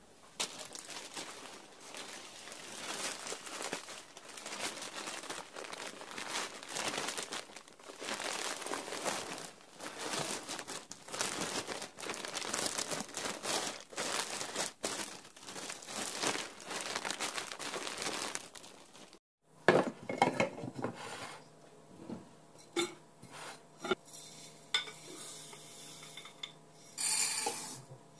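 Kitchen work with dishes and utensils: a long stretch of continuous scraping and rustling noise, then, after a sudden cut, scattered clinks and knocks over a faint steady hum.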